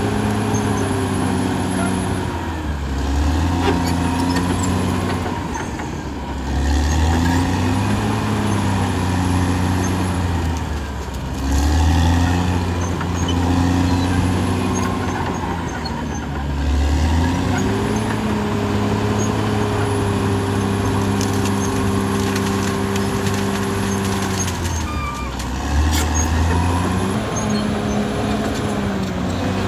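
Caterpillar D6R XL bulldozer's diesel engine working, its note dropping and picking up again about five times.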